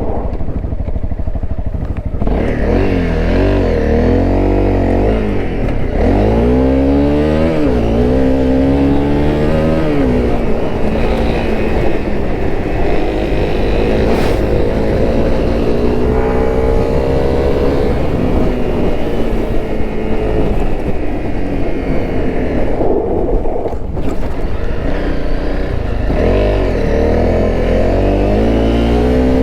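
Honda CRF250L dual-sport motorcycle's 250 cc single-cylinder four-stroke engine under way, revving up and dropping in pitch again and again as the rider accelerates, shifts gears and eases off.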